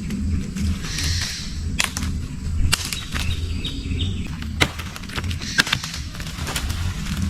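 Birds chirping over a steady low rumble, with several sharp snaps or knocks spread through it.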